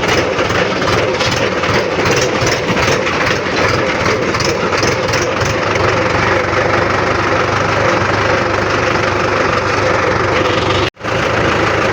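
Tractor's diesel engine running steadily while the tractor is driven along. The sound drops out for an instant near the end.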